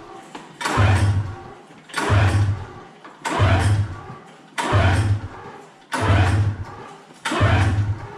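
Recoil pull-starter of a 2011 Polaris 600 Rush snowmobile yanked over and over, about one pull every 1.3 seconds with six pulls. Each pull is a short burst of the freshly rebuilt 600 CFI two-stroke engine cranking over without catching: the first start attempts after the rebuild.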